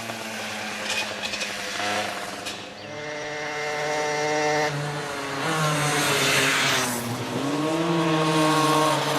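Old motorcycle engines running, their note shifting up and down in pitch, with one dipping and then rising again near the end.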